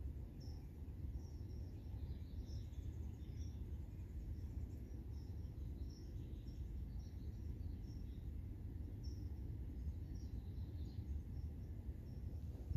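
Outdoor ambience: a steady low rumble with short, high bird chirps scattered irregularly throughout.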